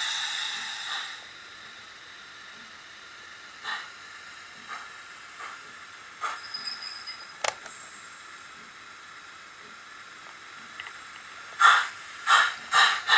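OO-gauge model of an LMS 3F 'Jinty' tank engine playing recorded steam sounds through its small onboard speaker from a Zimo MX648 sound decoder run on analog DC: a hiss of steam that dies away about a second in, a few soft, widely spaced exhaust chuffs and a sharp click, then near the end loud chuffs about two a second.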